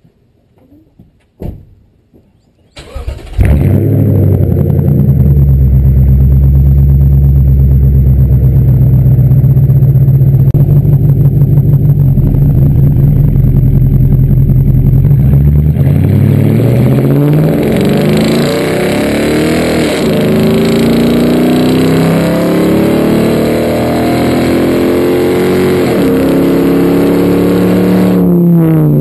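2016 Toyota Tundra V8 through a Flowmaster Outlaw exhaust starting up about three seconds in and running at a steady, loud idle. About halfway through it is revved again and again, its pitch rising and falling with each rev.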